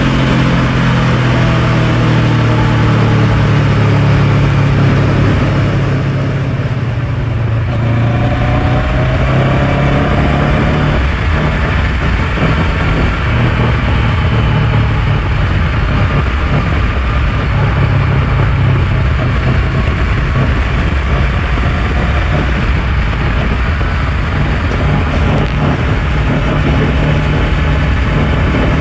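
Honda NX500's parallel-twin engine running under way, with a heavy wash of wind noise over it. The revs ease off about six seconds in, then pick back up and hold fairly steady.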